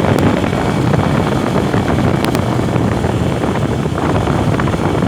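A vehicle on the move: its engine runs steadily under heavy wind noise on the microphone.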